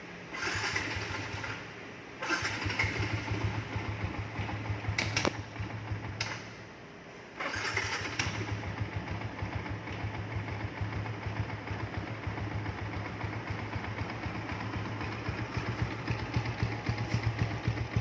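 Yamaha Sniper 150's single-cylinder four-stroke engine, fitted with a replica Pro GP type aftermarket exhaust, starting up. It runs, cuts out briefly about two seconds in and again for about a second after six seconds, then starts again and idles steadily with an even low beat.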